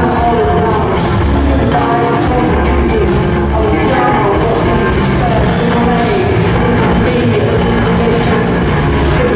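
A rock band playing loud and steady at a live show, with a heavy bass end and sharp drum and cymbal hits throughout.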